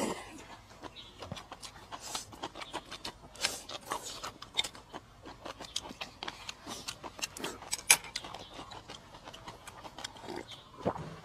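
Close-miked eating: irregular small clicks, smacks and crackles of someone chewing and gnawing food, with a sharper click about eight seconds in.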